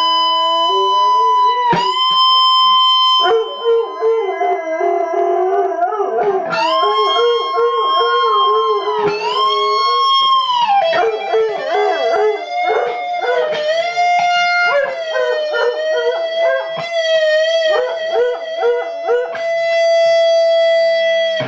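Rock music led by an electric guitar playing long held notes that bend up and down, a howl-like lead line. A final note is held for about two seconds near the end.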